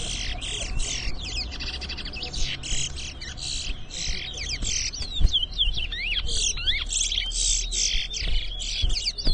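Two male chestnut-bellied seed finches (towa-towa) singing against each other in a song race, in rapid, nearly unbroken phrases of trills and sliding whistled notes.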